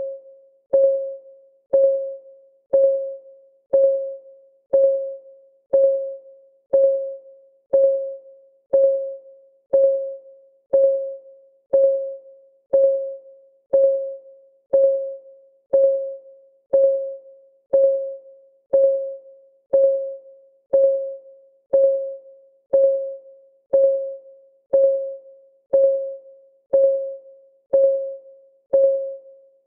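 Timer's clock-ticking sound: a sharp tick about once a second, each ringing briefly on one mid-pitched tone and fading before the next.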